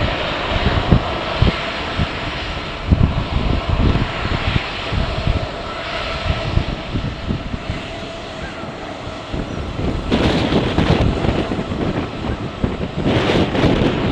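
Jet airliner engines running with a steady whine, under heavy wind buffeting on the microphone, with two louder rushes of noise about ten and thirteen seconds in.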